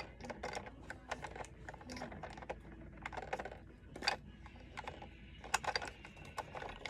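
Small plastic toy pieces clicking and tapping irregularly against a plastic toy airplane as a toy suitcase is pushed at the gap under a seat, with a few sharper clicks about four and five and a half seconds in.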